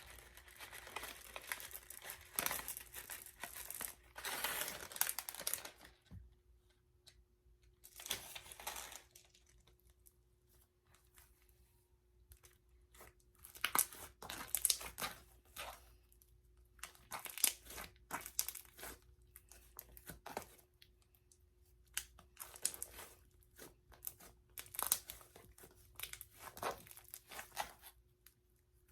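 Homemade slime with plastic beads mixed in being kneaded and stretched by hand, crackling and squishing in irregular bursts with short pauses between.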